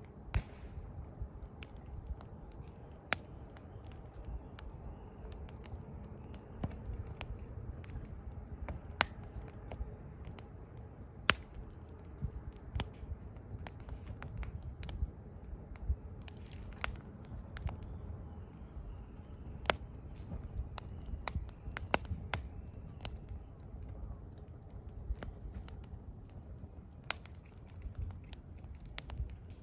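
Wood fire burning: the firewood crackles with irregular sharp pops, a few much louder than the rest, over a low steady rumble.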